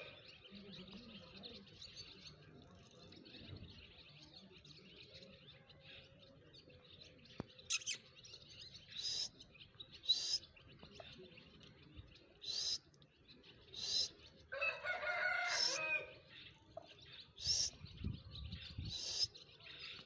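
Birds calling: a scattering of short, sharp high chirps through the second half, and one longer call of about a second and a half with several stacked pitched layers near the middle.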